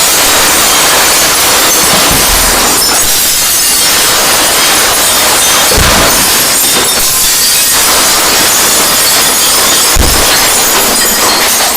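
Very loud, harsh, distorted noise blaring without a break, with a low thud about every four seconds.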